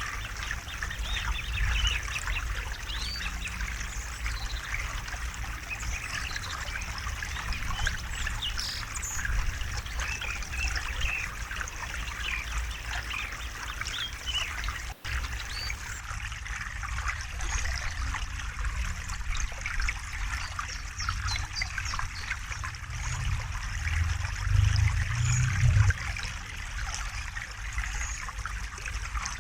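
River water running and trickling steadily, with birds chirping over it. The sound cuts out for an instant about halfway through, and a low rumble swells briefly a few seconds before the end.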